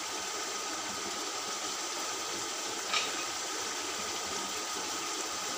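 Chicken and potato pieces frying in oil and masala in an aluminium pot, a steady sizzling hiss, with one brief tick about three seconds in.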